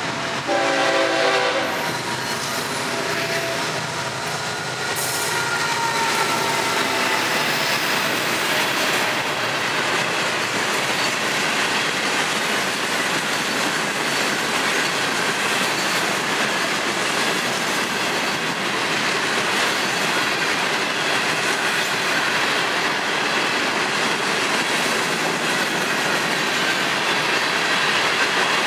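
Freight train horn sounding briefly at the start, then a long freight train rolling past with a steady rumble of steel wheels on rail and faint wheel squeal.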